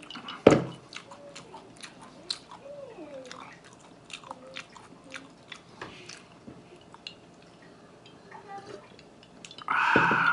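Close-miked chewing: a run of small wet mouth clicks and smacks. About half a second in, a glass mug is set down on a wooden board with a single loud knock. A short loud vocal sound comes near the end.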